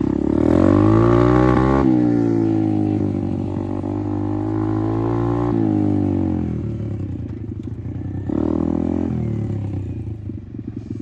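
Apollo RFZ 125 dirt bike's single-cylinder four-stroke engine running under throttle as it is ridden, revving up in the first second, easing and climbing again, dropping off at about five and a half seconds, with one more short rev near eight seconds before settling to a lower steady note.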